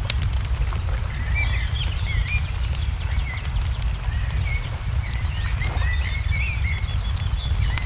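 Wood fire crackling with scattered sharp pops, under many short bird chirps that glide up and down, over a steady low rumble.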